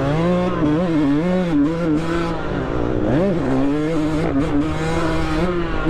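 Dirt bike engine being ridden hard around a motocross track, its revs climbing and falling repeatedly through the gears, with a quick drop and climb in revs about three seconds in.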